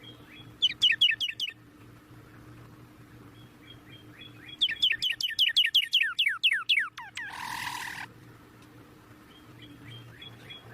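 Bird chirping in two fast runs of sharply falling notes, a short run near the start and a longer one about halfway through that sinks lower in pitch, followed by a brief harsh rasp. Faint soft peeps come between the runs.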